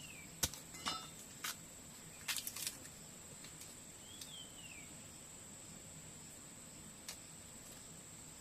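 Rural outdoor ambience: an insect keeps up a steady high-pitched drone while a bird gives a short falling chirp twice, about four seconds apart. A handful of sharp clicks and knocks come in the first three seconds and once more near the end.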